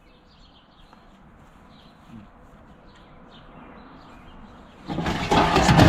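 Old metal garden tractor parts being handled: a loud scraping rattle starts about five seconds in, after a few seconds of quiet outdoor background.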